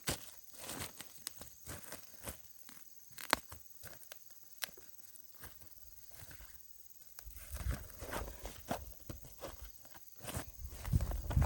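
Dry corn stalks, leaves and husks crackling and snapping as ears of corn are broken off by hand: a scattered string of sharp snaps and rustles. A low rumble comes in past the middle and grows louder near the end.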